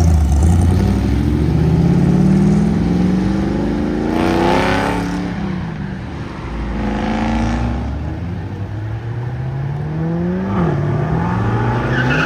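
Car engine accelerating hard, climbing in pitch and dropping back at each of several gear changes as it pulls away.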